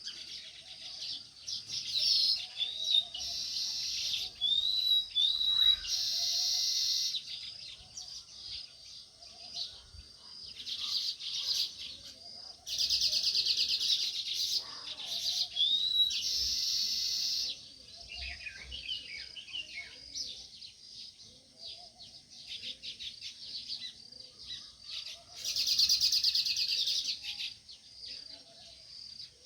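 A group of house sparrows chirping, with bursts of loud, rapid chattering about two, twelve and twenty-six seconds in.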